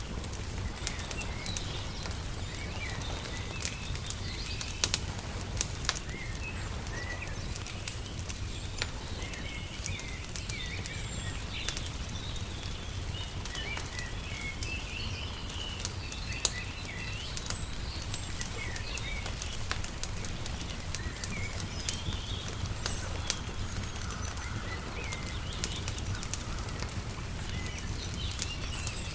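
Wood fire crackling with scattered sharp pops, over small birds chirping and twittering throughout, and a low steady rumble underneath.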